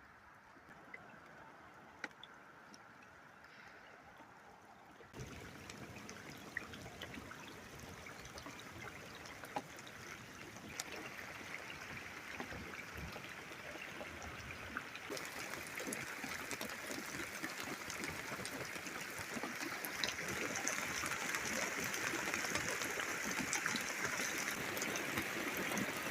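Rain falling during a thunderstorm, with many small drips and splashes, growing steadily heavier: faint at first, stepping up about five seconds in, then building.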